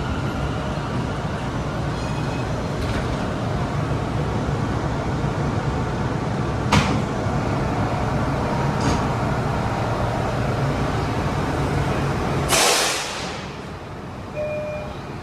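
R179 subway car running on the tracks with a steady low rumble and an occasional sharp click. About twelve seconds in comes a loud burst of air hiss, and the running noise then falls away as the train comes to a stop.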